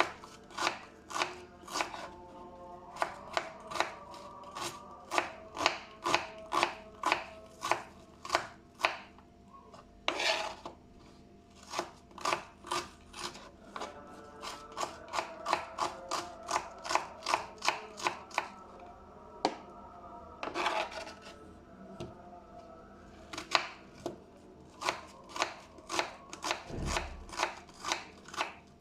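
Knife chopping vegetables on a cutting board: a long run of sharp strikes, about two a second, interrupted twice by a longer, softer sound.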